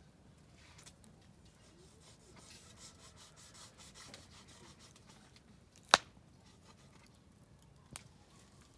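Oak firewood burning in a small fire pit, crackling faintly, with one sharp loud pop about six seconds in and a smaller pop near the end.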